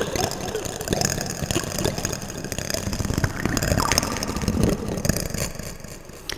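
Plastic spoons clicking and rattling against each other, played through an echo effect so the clicks run together into a dense, continuous clatter that thins out near the end.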